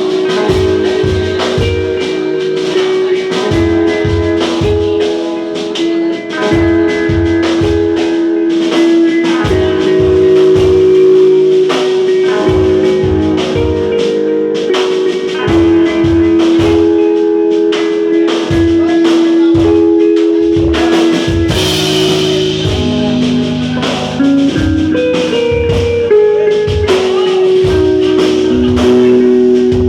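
A band playing live: a drum kit with a steady kick-drum beat under held melodic notes that step between pitches, and a cymbal wash about two-thirds of the way through.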